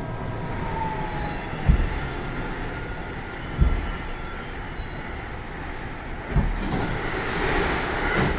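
Interior running sound of a JR West 207 series 0-bandai motor car with a power-transistor VVVF inverter, slowing down: the inverter's falling whine fades out in the first second or two over steady wheel and rail noise. Low thumps come at wider and wider gaps, about two seconds, then three. A hiss rises near the end.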